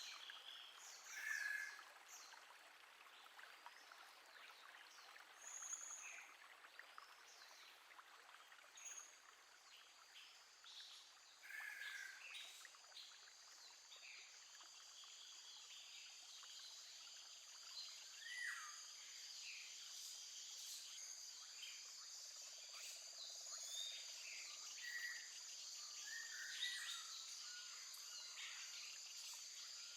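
Faint outdoor ambience of birds singing, with scattered short chirps and sweeping calls. A steady high-pitched drone joins about halfway through.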